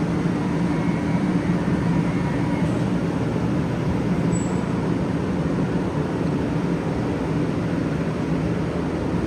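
Steady train noise, an even rumble with a low hum, holding at the same level throughout.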